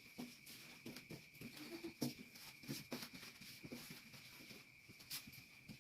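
Faint, irregular rubbing and light taps of a cloth wiping a mirror's glass, in short uneven strokes.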